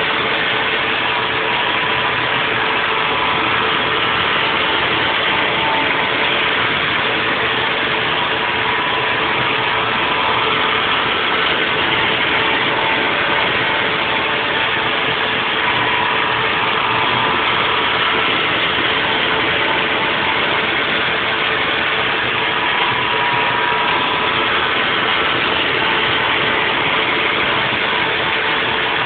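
Haas VF4 CNC vertical mill running a 3D milling cycle: steady spindle and cutting noise with a constant hum, and a higher whine that comes and goes as the tool moves.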